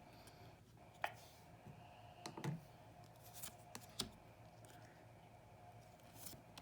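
Oracle cards being handled and flipped through: a handful of soft clicks and taps of card stock, the clearest about a second in, twice around two and a half seconds, and at four seconds, over quiet room tone.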